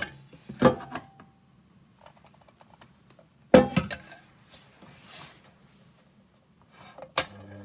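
Hard objects being handled: three sharp knocks or clatters a few seconds apart, with light clicking and rubbing between them.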